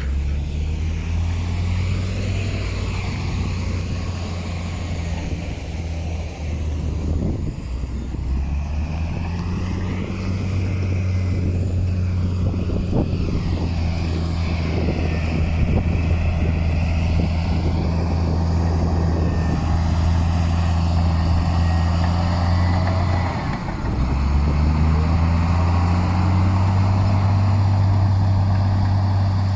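Heavy diesel engine of earthmoving machinery running steadily, with scattered knocks in the middle. A little before the end the engine note drops briefly, then climbs back up.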